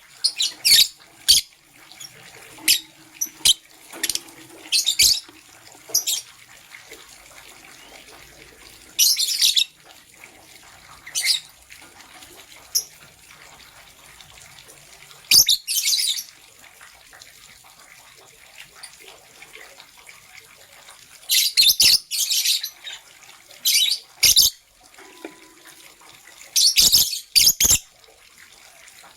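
Lovebirds chirping: sharp, high-pitched chirps and short chattering runs come in irregular bursts, the longer runs lasting about a second, with quieter gaps between.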